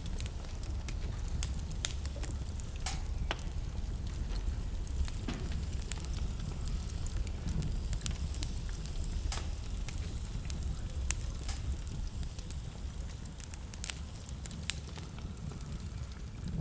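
Wood fire burning in a fireplace: a steady low rumble of the flames with sharp, irregular crackles and pops throughout.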